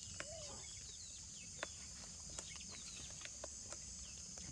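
Parrots chirping in short, repeated falling notes, with one lower squawk near the start and scattered sharp clicks, over a steady high hiss.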